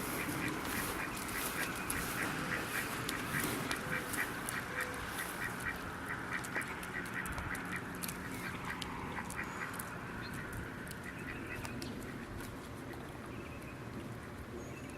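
A flock of ducks quacking in a fast, steady chatter of short calls, several a second, which thins out about two-thirds of the way through.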